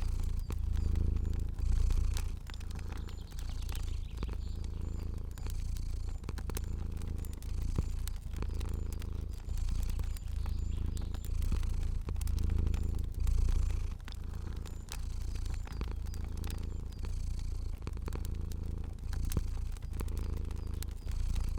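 A cat purring steadily, the deep purr swelling and fading with each breath, with a fire crackling in small sharp pops throughout.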